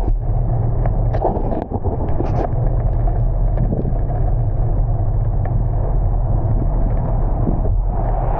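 A car driving in heavy rain: a steady low engine and road rumble, with scattered short taps and clicks in the first couple of seconds.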